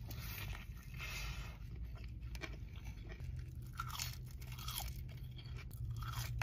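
Close-up eating sounds: crispy fried chicken being bitten and chewed, with irregular crunches.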